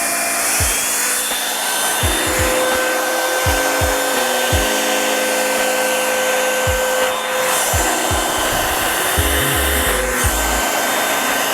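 Revlon One-Step paddle-brush hair dryer blowing steadily, a loud airy hiss with a faint motor whine, drying hair. Background music with a bass line and a beat plays under it.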